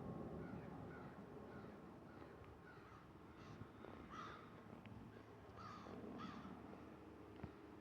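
Birds calling repeatedly, short calls a few every second or two, faint over a low rumble that fades away in the first few seconds.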